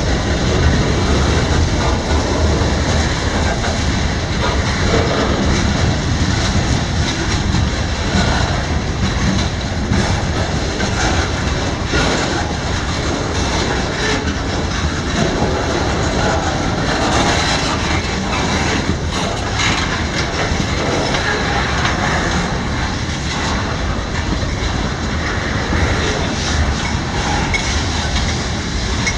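Freight train cars rolling past at steady speed: a continuous loud rumble of steel wheels on the rails, with a rattle of clicks running through it.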